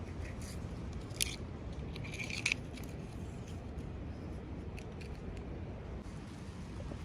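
Scissors snipping and packaging crinkling as a toy box is cut open: two sharp snips about one and two and a half seconds in, then a few faint clicks, over a steady low background rumble.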